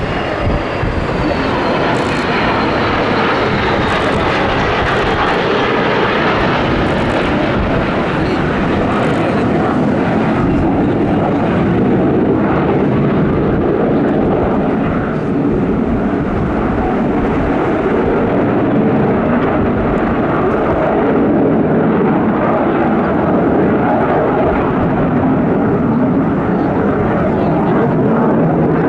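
Loud jet engine noise from an aircraft flying past, with a high whine falling in pitch over the first few seconds. The sharper high end then fades, leaving a steady low rumble as the aircraft moves away.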